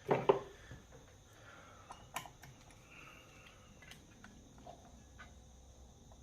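A few faint, scattered clicks and taps of hand tools and chainsaw engine parts being handled during a piston rebuild.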